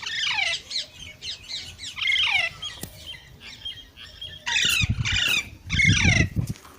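Green ringneck parrot screeching: a rapid run of harsh, downward-sliding squawks, the loudest ones about five and six seconds in, which come with a low thudding.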